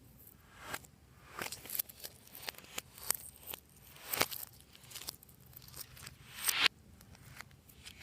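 Slime being worked by hand, giving an irregular string of sticky pops and crackles; the loudest swells and cuts off suddenly late on.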